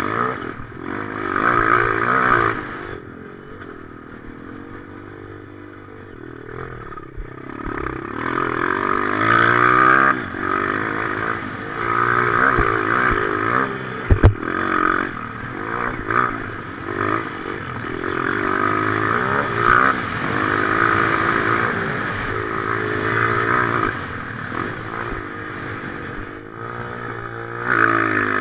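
Motocross bike engine revving up and down again and again as it is ridden hard, heard from the rider's helmet. There is a sharp thump about halfway through.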